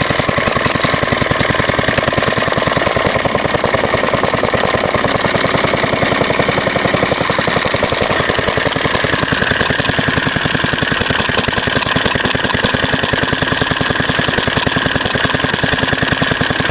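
Fairbanks-Morse Z Style D single-cylinder stationary engine running steadily with fast, even firing beats. It is running a little too fast, faster than its usual speed.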